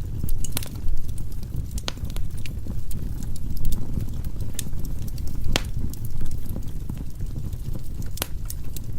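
Firewood burning in a fireplace: a steady low rumble of the flames with irregular sharp crackles and pops, the loudest about half a second in and again about five and a half seconds in.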